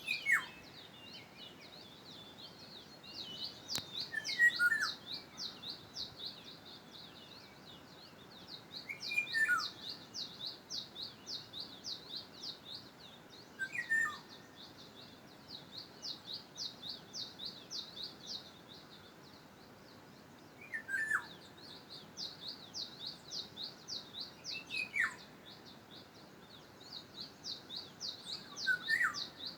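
Birds calling: a fast, steady series of high chirps, about four or five a second, runs throughout. Every four to five seconds a louder, lower call sweeps downward in pitch.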